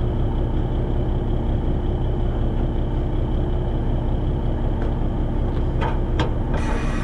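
Kenworth log truck's diesel engine idling steadily. Near the end come a few sharp clicks and a short burst of hiss.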